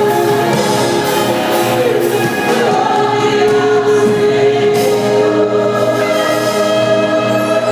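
A choir of voices singing gospel music with instrumental backing.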